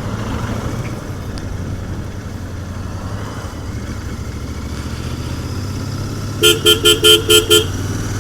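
Royal Enfield Continental GT 650's 648 cc parallel-twin engine running steadily through its stock exhaust while riding. Near the end, a vehicle horn toots six times in quick succession, the loudest sound here.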